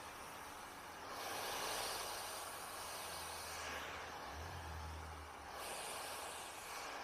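Handheld hair dryer blowing air through long hair, a steady rushing hiss that swells louder twice as the dryer is moved around, over a low motor hum.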